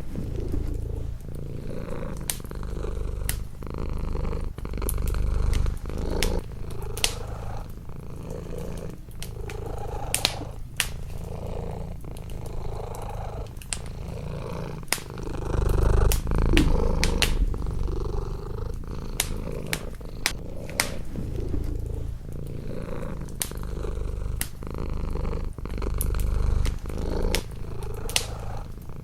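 Domestic cat purring up close, the low purr swelling and fading with each breath. Wood fire crackling throughout, with frequent sharp pops.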